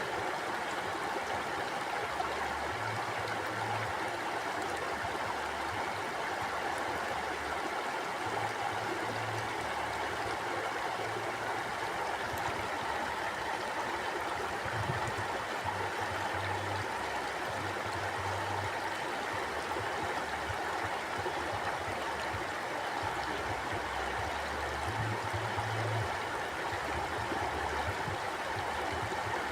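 Mountain stream flowing: a steady, even rushing of water, with a low rumble that swells and fades every second or two underneath it.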